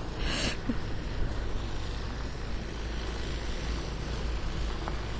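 Wind buffeting the microphone outdoors, a steady low rumble under a constant hiss, with a brief sharper hiss about half a second in.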